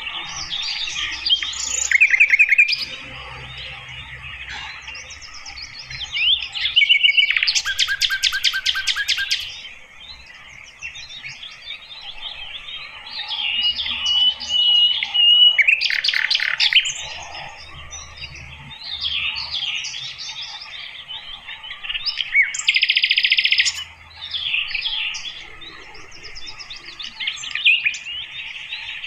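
Sikatan londo flycatcher singing: a busy run of chirps, whistles and rapid trills, with a held whistled note near the middle and several louder trilling bouts.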